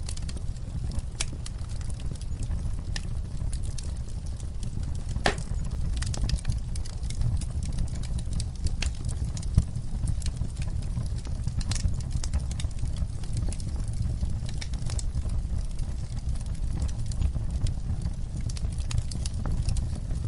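Wood fire burning with a steady low rumble and irregular sharp crackles and pops, one louder pop about five seconds in.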